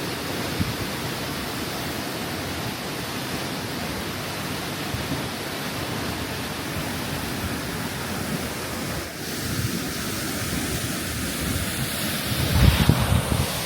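Sturtevant Falls waterfall rushing steadily. Near the end, wind buffets the microphone in low gusts.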